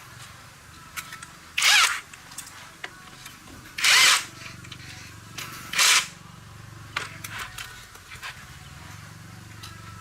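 Handheld power tool run in three short bursts, each about half a second long and roughly two seconds apart, with a high whine; light clicks and knocks between the bursts.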